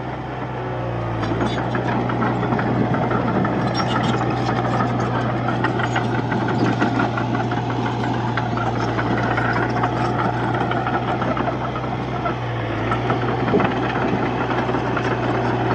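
Diesel engine of a Komatsu D31-P bulldozer running steadily under load, its pitch dipping briefly about a second in and again near the end, with clattering over it.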